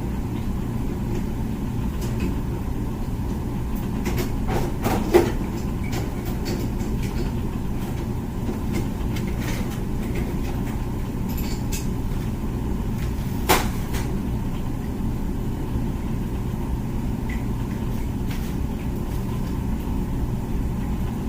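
Comfee dishwasher running, a steady hum, with a sharp knock about five seconds in and another about thirteen seconds in.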